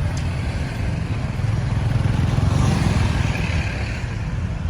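Busy road traffic: a steady low rumble of motorbike and car engines, with one vehicle passing close and loudest around the middle.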